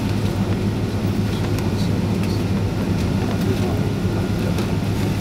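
Steady low rumble inside the passenger cabin of a Boeing 767-336 with its Rolls-Royce RB211 engines running on the ground before takeoff, with a few faint light ticks.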